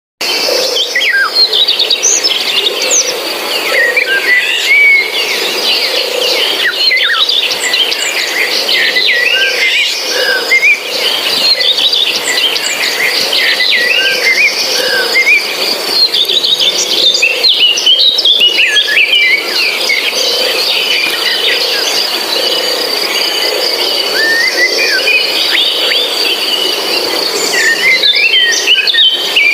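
Birds chirping busily and without pause: many short, quick calls sliding up and down in pitch, over a steady high-pitched tone.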